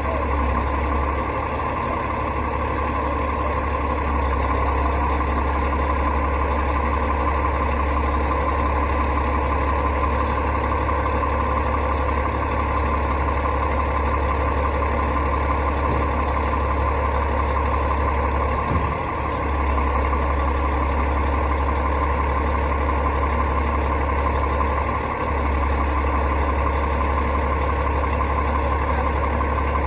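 Rooftop HVAC unit running with a steady mechanical drone, strongest low down, which dips briefly twice.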